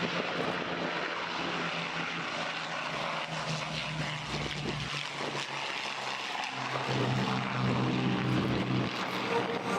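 Piston-engined propeller warbird flying past, its engine drone steady and then dropping in pitch about seven seconds in as it goes by.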